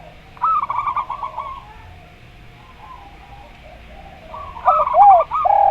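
Doves cooing, a zebra dove (perkutut) and a derkuku collared dove: a quick stuttering run of short coos about half a second in. A second run near the end leads into several louder, arched coos that drop in pitch.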